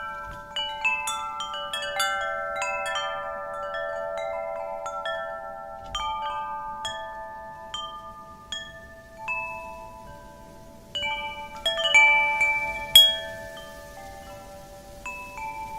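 Wind chimes ringing as the wind knocks them at irregular moments, with overlapping tones that die away slowly. The strikes thin out in the middle, then a quick flurry of loud strikes comes about three-quarters of the way through.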